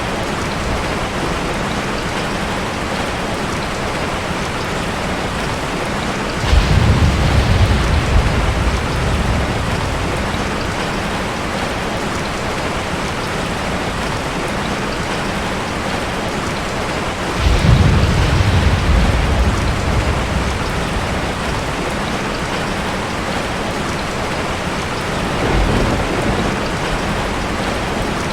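Heavy rain falling steadily, with thunder rumbling three times: a sudden low rumble about a quarter of the way in, another past the middle, and a fainter one near the end.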